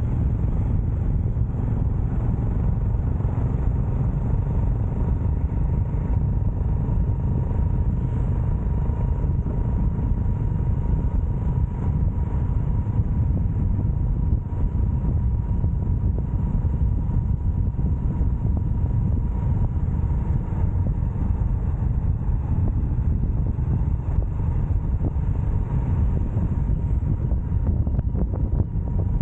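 Motorcycle ridden at a steady speed: heavy low wind noise on the microphone over the steady running of the engine.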